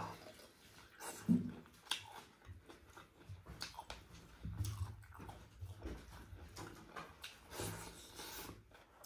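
Close-up eating sounds: a person chewing and biting into grilled chicken, with irregular wet smacks and clicks of the mouth.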